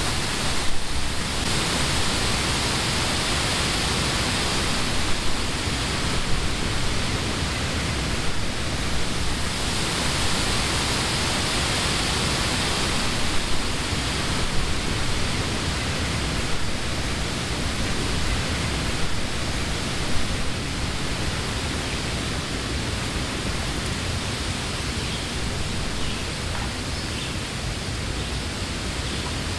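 Summer wind blowing through the leaves of trees in a steady rush, swelling in gusts near the start and again about ten seconds in, then easing slightly toward the end.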